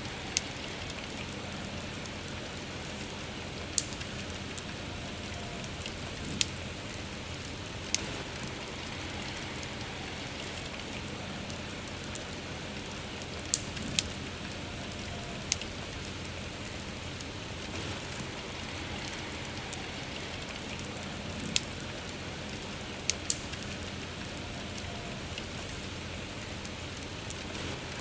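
Steady soft rain with a wood fire crackling, its sharp pops coming at irregular intervals every second or two.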